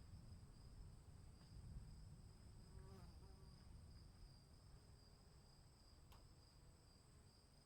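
Crickets trilling steadily and faintly over a low rumble, with a couple of faint brief sounds midway.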